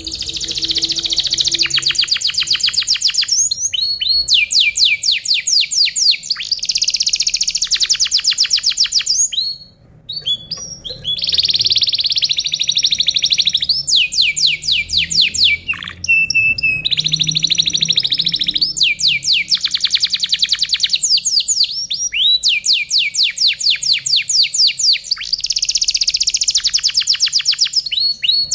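Domestic canary singing: phrase after phrase of rapid, evenly repeated high notes in rolling trills, with short breaks about ten and sixteen seconds in.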